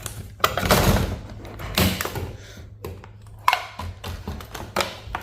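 Irregular knocks, clicks and short scrapes of hand tools and metal and plastic parts being handled while a server power supply is pried apart, with a sharp click about three and a half seconds in. A faint low hum runs underneath.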